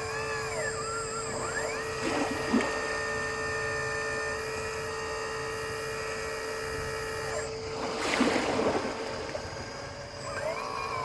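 RC hydraulic excavator (Lesu PC360 model) running, its motor and hydraulic pump whining steadily, the pitch rising and falling as the controls are worked. There are two short rushes of noise, about two and a half seconds in and around eight seconds.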